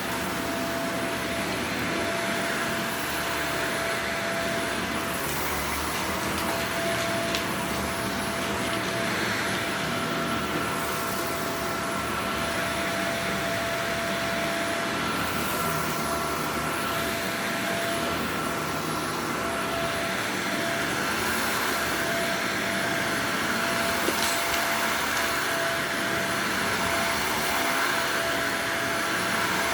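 Upright vacuum cleaner running steadily over a dirty carpet, its motor holding a steady whine, with a second, higher whine joining about ten seconds in.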